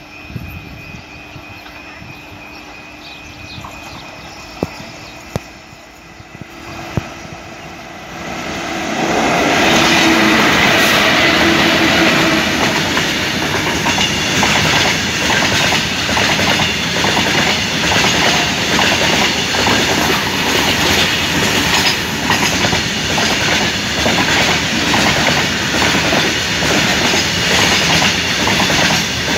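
Freight train hauled by twin WAG-5HA electric locomotives approaching and passing close by. The sound swells sharply about eight seconds in as the locomotives go past, then a long rake of BOXN covered wagons rolls by with a steady rhythmic clickety-clack of wheels over the rail joints.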